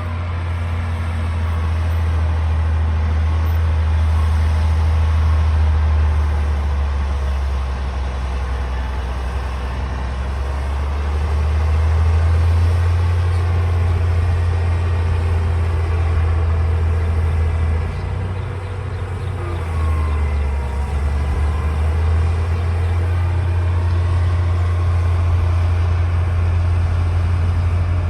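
Diesel engine of a D60 bulldozer running steadily with a deep low drone, swelling and easing a few times as the load changes.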